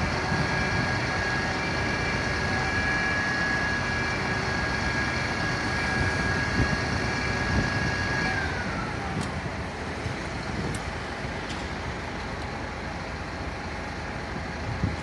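Fire engine siren holding one high steady wail, then winding down and fading out about eight seconds in, over a truck engine and traffic noise.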